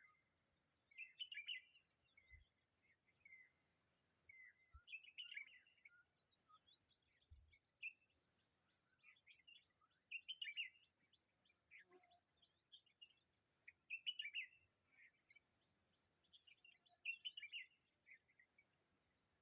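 Faint bird chirping in short bursts every second or two, with thin higher trills between them.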